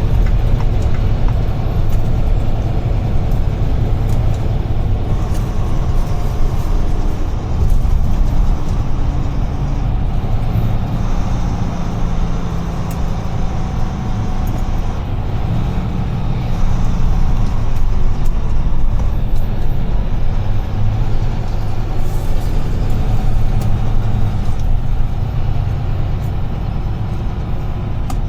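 UD Trucks Quon heavy truck on the move, its engine and road noise forming a steady low drone. The engine pitch shifts a little now and then.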